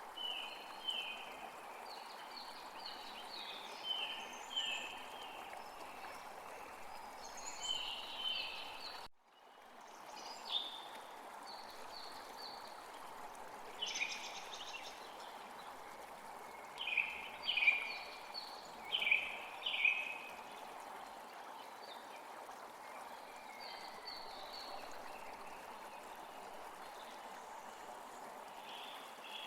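Wild birds calling in short, quick, falling chirps, often in little runs of two to four, over a steady rushing background noise. The background cuts out for a moment about nine seconds in, and the loudest run of chirps comes a little past halfway.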